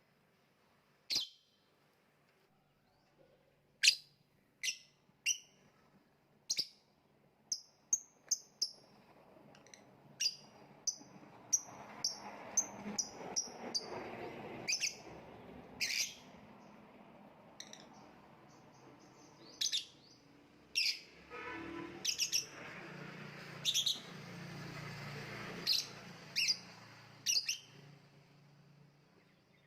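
Lovebird calling in sharp, shrill chirps at irregular intervals, thickening about a third of the way in into a busier stretch of chatter between the chirps that thins out again near the end.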